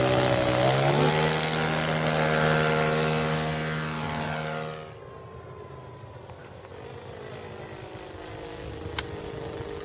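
A radio-controlled Hawker Hurricane model's .91 glow engine running at steady high throttle as the plane flies, stepping up in pitch about a second in. The sound fades sharply about five seconds in and stays faint, with a single click near the end.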